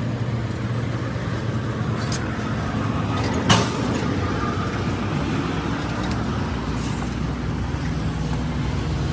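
Steady motor or engine hum, with one sharp knock about three and a half seconds in.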